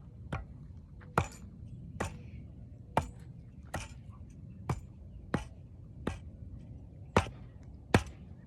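A hand tool striking at an even working pace, about ten sharp chopping blows a little under a second apart.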